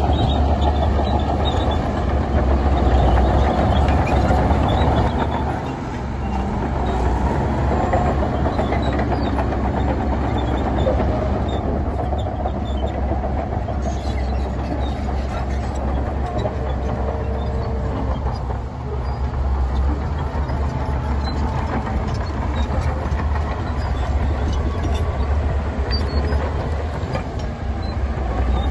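Heavy diesel earthmoving machinery running steadily under load, a deep continuous rumble with brief dips in level about six and nineteen seconds in.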